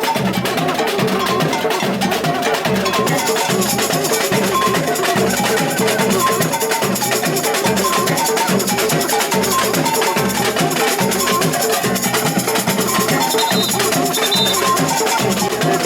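Samba percussion band playing a steady, driving groove, with regular deep bass-drum beats under busy shakers and drums.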